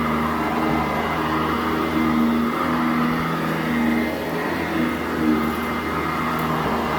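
Sanitaire SC899 commercial upright vacuum cleaner running steadily on carpet, its motor tone wavering slightly as it is worked back and forth.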